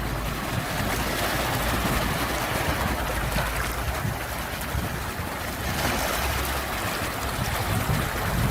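Sea waves: a continuous rushing surf that swells and eases.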